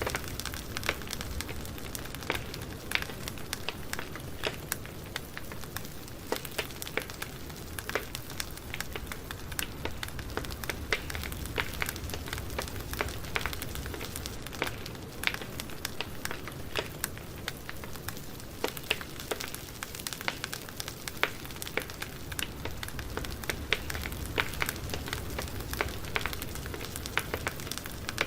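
Campfire burning, crackling with many small irregular pops and snaps over a steady low hiss and rumble of the flames.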